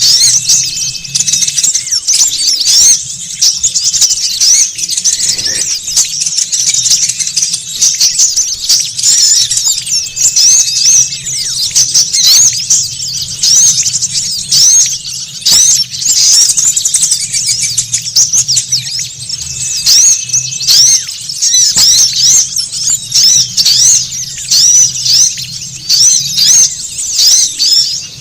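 Many small songbirds chirping at once, a dense and continuous high-pitched chatter of quick overlapping notes: a bird-trapping lure recording of a noisy flock of small birds. A low steady hum runs underneath.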